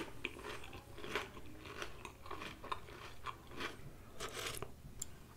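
A person chewing food close to the microphone: soft wet mouth clicks and small crunches at an irregular pace, then a spoonful of tomato soup taken near the end.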